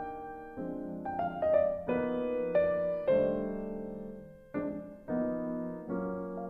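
Background music: a piano playing a slow sequence of chords, each struck and left to ring and fade.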